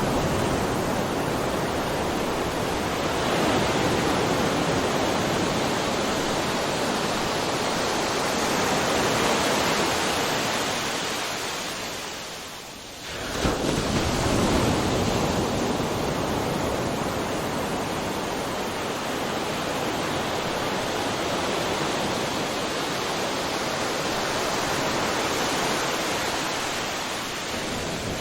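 Ocean waves breaking continuously on a shore, a dense steady wash of surf. About halfway through the surf fades for a moment, then a new wave breaks suddenly.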